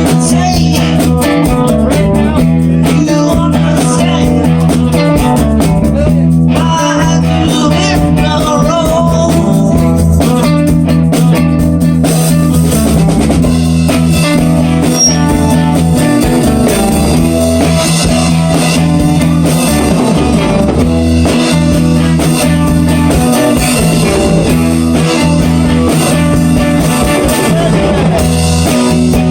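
Rock band jamming instrumentally: electric guitar playing a blues-rock riff over bass and drum kit, with bending lead guitar lines.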